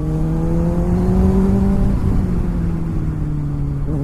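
Kawasaki ZX-6R inline-four engine running at steady cruising speed, its note climbing gently for about two seconds and then easing off, with wind noise over the microphone.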